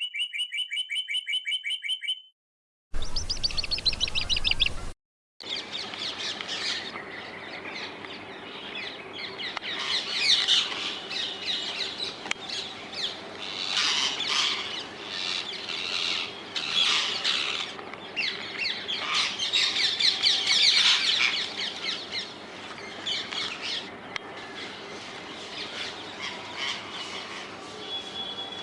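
A flock of rose-ringed parakeets (Indian ringnecks) calling, with rapid, shrill, repeated calls that swell into loud bursts several times over a steady background hiss. The first few seconds hold a separate, edited-in series of rapid tones before the birds come in.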